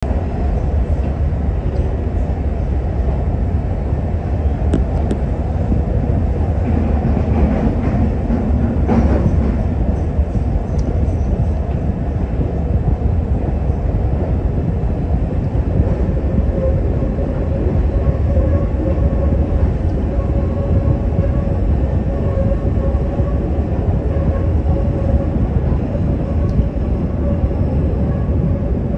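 Chicago 'L' Brown Line train running along the elevated track, heard from inside the car: a steady, loud rumble of wheels on rails. There is a sharp clack about nine seconds in, and a faint steady hum or whine comes in about halfway through.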